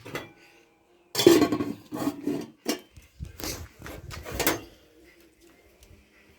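Dishes and cutlery clattering: a run of irregular knocks and scrapes from about one second in to nearly five seconds in, after one short knock at the start.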